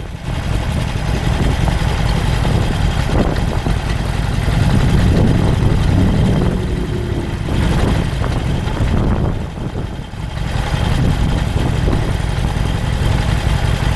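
A vehicle's engine running with a steady low rumble while driving, dipping briefly in level about nine to ten seconds in.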